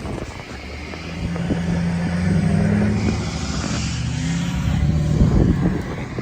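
A car engine running with the revs rising, easing off and rising again.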